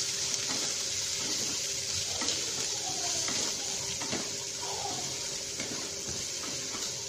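Potatoes, peas and onion sizzling in hot oil in a nonstick pan, a steady hiss, with a spatula stirring and scraping through them.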